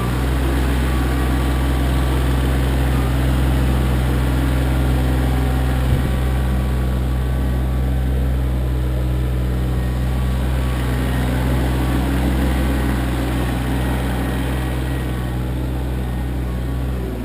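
Kioti CK25 compact tractor's three-cylinder diesel engine running steadily, with a single knock about six seconds in.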